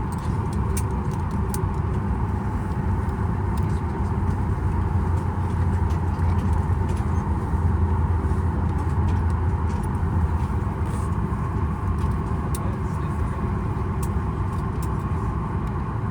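Steady low cabin drone inside a Boeing 737 MAX 8 on the ground, the aircraft's air and systems running with a light hiss of air over it, swelling slightly partway through. A few faint clicks sit on top.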